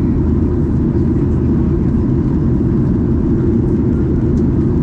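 Steady low drone of a Boeing 737-800's engines and airflow heard inside the passenger cabin, unchanging throughout.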